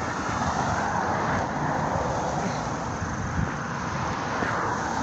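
Road traffic passing close by: a steady rush of vehicle engine and tyre noise.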